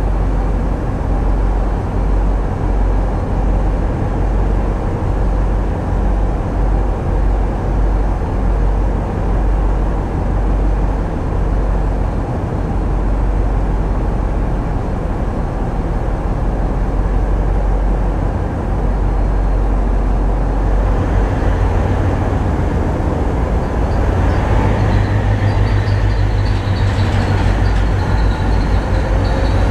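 Tugboat's diesel engines running under steady load with a deep rumble. About two-thirds of the way through they build up, adding a stronger low hum and a faint rising whine, as the tug goes to high power for an emergency indirect slowdown of the ship it is towing.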